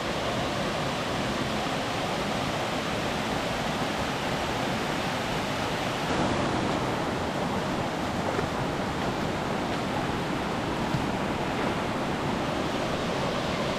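Bear Creek's water rushing over falls and cascades, a steady even roar of running water.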